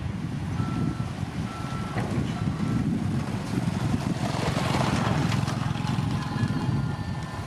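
Heavy diesel earthmoving machinery running with a low steady rumble, while a reversing alarm sounds three evenly spaced beeps about a second apart. A brief hiss comes midway, and fainter higher beeping tones follow near the end.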